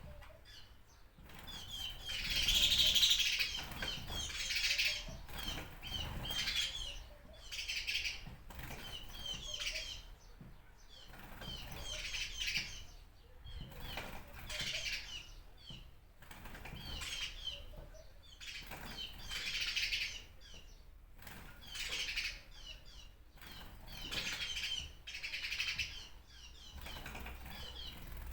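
Birds chirping in a run of short twittering bursts, one about every one to two seconds.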